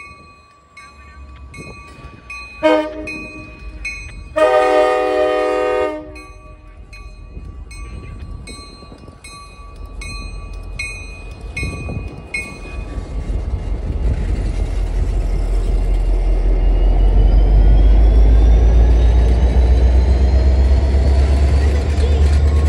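MBTA commuter rail diesel locomotive sounding its horn at a street crossing: a short blast about three seconds in, then a longer one of about a second and a half, over a bell dinging steadily about twice a second. The bell stops about halfway through, and the low rumble of the locomotive and its wheels on the rails builds as the train rolls past, with a rising whine, loudest near the end.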